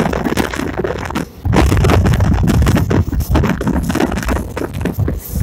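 Passenger train running, its wheels rumbling and clattering on the track, with wind buffeting the microphone. It grows louder about a second and a half in.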